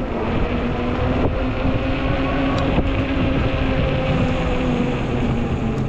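Ecotric fat-tire e-bike riding along: a steady electric motor whine over the rumble of the fat tires, with wind on the microphone. A lower hum joins the whine about four seconds in.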